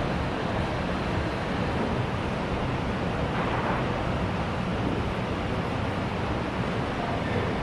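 School canteen crowd ambience: a steady, indistinct babble of many voices blending into one continuous wash.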